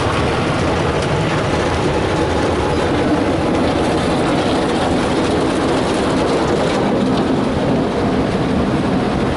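Ryko Softgloss Maxx soft-touch car wash running its brush cycle, heard from inside the car: spinning cloth brushes and water working over the body in a steady, dense wash of noise.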